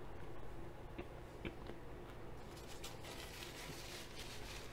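Faint close-up chewing and mouth sounds of someone eating rice and kofta kebab, with two small clicks about a second in and soft crackly chewing noise from about halfway.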